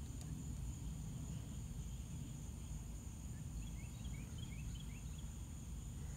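Faint outdoor background: a low rumble under a steady high-pitched insect drone, with a quick run of about eight short chirps, like a small bird, around the middle.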